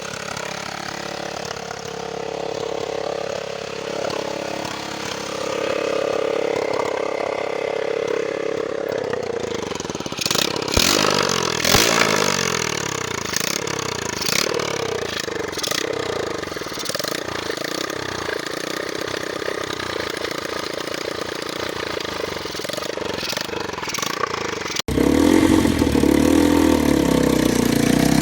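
Yamaha TT-R125L single-cylinder engine running, steady at first, then revving up and down over and over from about ten seconds in. After a sudden cut near the end it runs louder.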